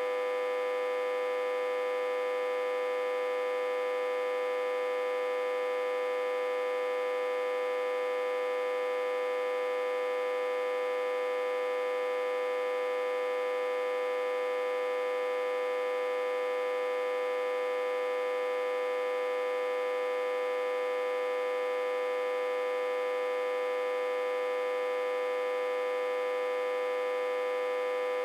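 Autotransformer humming steadily, a constant buzzing tone with many overtones that does not change. It is reverse-connected to a step-down transformer and fed about 60–80 V.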